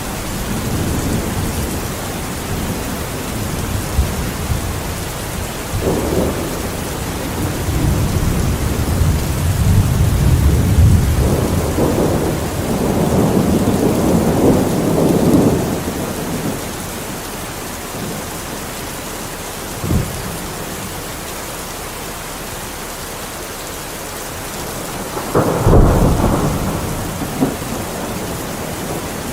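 Steady rain with thunder: long low rolls of thunder swell and fade through the middle, and a sharp, louder thunderclap breaks near the end.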